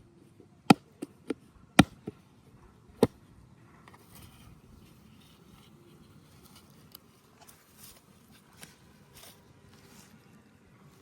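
Six sharp clicks or knocks in the first three seconds, two of them much louder, then a faint outdoor background with small scattered rustles.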